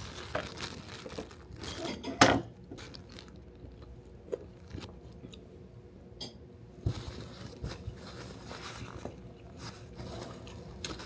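A person chewing and crunching food close to the microphone, with scattered small clicks and a louder crunch about two seconds in.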